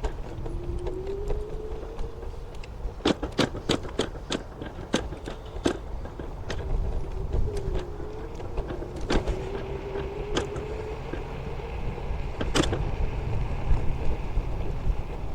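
Electric scooter's motor whining along at a wavering pitch, over a constant low rumble of wind on the microphone. Scattered sharp clicks and knocks come from the ride, with a cluster of them about three to six seconds in and a loud one near the end.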